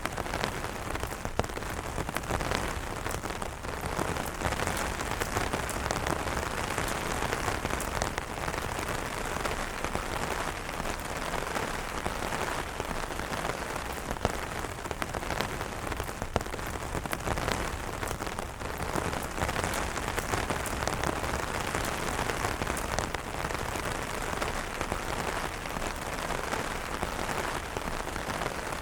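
Steady heavy rain falling on umbrellas, a dense even wash of rain with many sharp individual drop ticks scattered through it.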